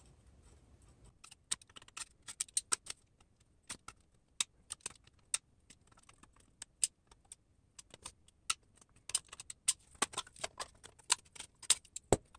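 Irregular light metallic clicks and taps of cut license plate pieces being handled and their notched tabs folded over, with one louder knock near the end.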